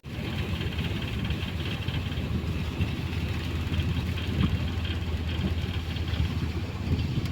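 An engine running at a steady drone, with a faint high whine above it.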